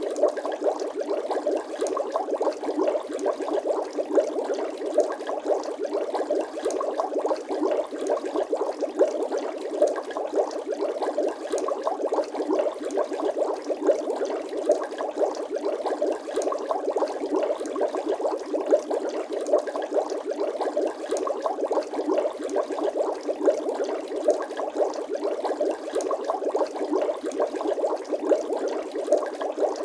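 Bubbling water sound effect: a steady, dense stream of small bubbles popping and gurgling, with no low rumble.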